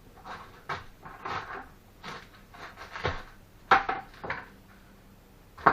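Masonry work: a string of short scrapes and hard knocks as bricks, steel and tools are handled and set down, with the sharpest knocks about two-thirds of the way in and near the end.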